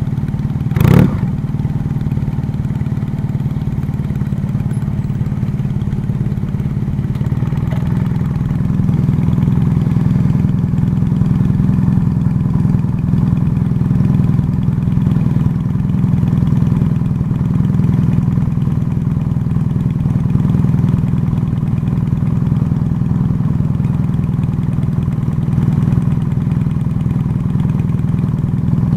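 Motor vehicle engine running steadily, getting a little louder about eight seconds in. A single sharp knock about a second in.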